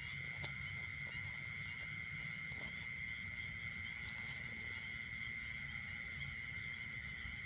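Insects chirring steadily in the field: a continuous high-pitched drone, with a few faint clicks and a low rumble underneath.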